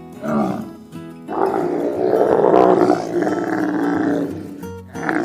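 Giraffe calling: a short call just after the start, then a long, rough, low call lasting about three and a half seconds, over background music.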